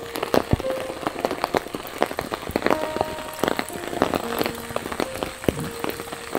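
Rain falling, with many individual drops tapping sharply and irregularly, over soft held notes of background music.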